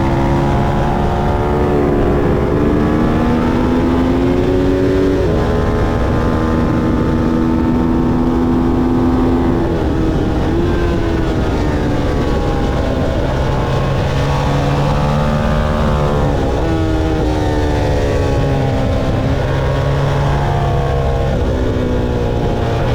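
Motorcycle engine running hard at track speed, its revs climbing and then dropping sharply several times as it shifts gears and slows for corners, over a steady rush of noise.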